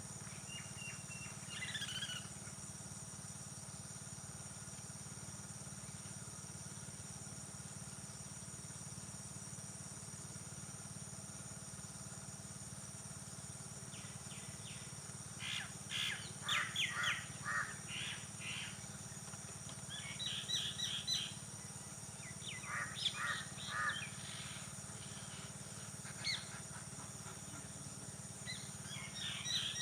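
Birds calling and chirping in scattered bursts, busiest in the second half, over a steady high-pitched background drone: early-morning field ambience.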